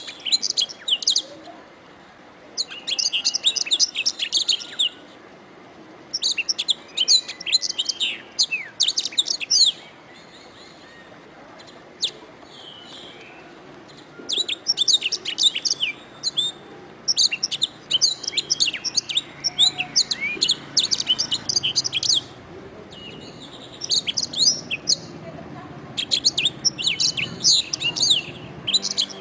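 Domestic canary singing in bouts of rapid, high trills and chirps, several phrases of a few seconds each with short pauses between them.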